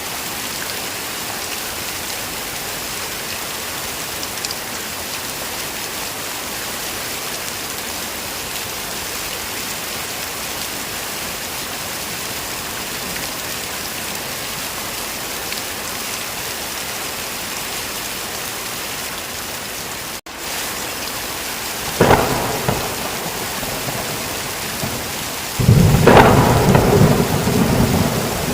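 Heavy rain falling steadily. A little after two-thirds in, a sudden crack of thunder sounds over the rain, and near the end a louder, longer thunder rumble follows.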